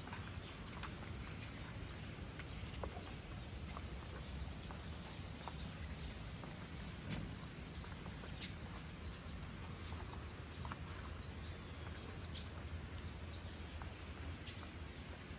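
Outdoor nature ambience: a steady low rumble under scattered, irregular faint ticks and clicks.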